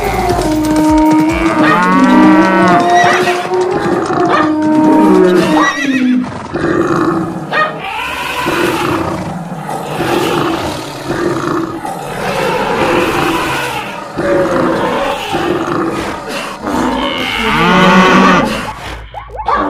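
Cows mooing, with other animal calls overlapping them throughout; quick, wavering calls stand out about two seconds in and again near the end.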